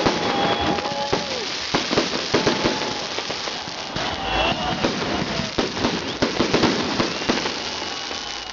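Fireworks salute going off: a rapid, irregular run of bangs and crackling bursts.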